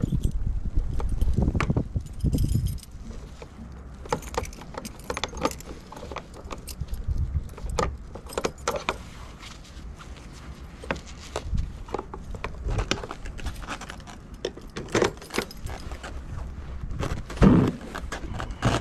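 Irregular small clicks and clinks, some in quick clusters, with a low rumble in the first few seconds.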